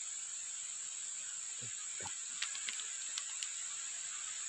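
Crickets or other night insects chirring in one steady high drone over a constant hiss, with a few faint clicks about halfway through.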